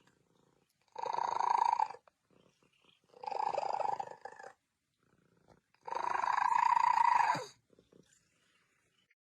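A cat giving long, drawn-out cries, three in a row with short pauses between them; the last cry is the longest and drops in pitch at its end.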